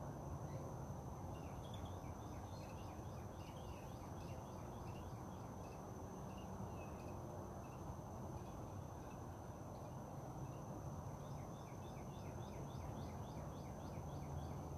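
Outdoor nature ambience: a steady high-pitched insect trill, with bird chirps in quick runs twice, over a low rumble.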